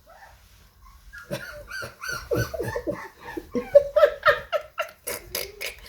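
An American Bully puppy whining and whimpering: a run of short, pitched cries that begins about a second in, some sliding in pitch.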